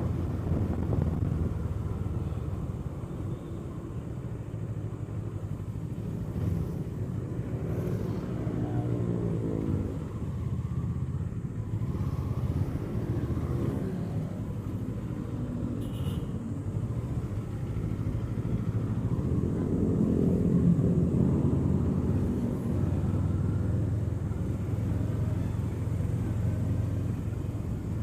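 2024 Kawasaki Eliminator SE's parallel-twin engine running under way, heard from on board. Its pitch climbs as the bike accelerates about eight seconds in and again around twenty seconds in, and settles back to a steady hum in between.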